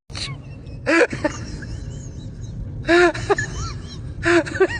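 Three short, high-pitched vocal sounds from a person, about a second in, about three seconds in and near the end, over a steady low rumble.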